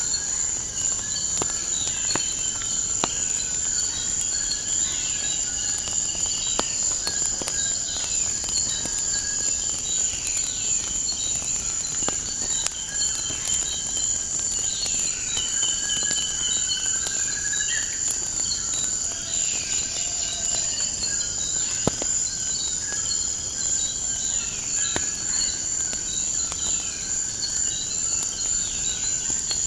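A steady, high-pitched insect chorus with many short, falling bird chirps over it and scattered sharp crackles of a wood fire.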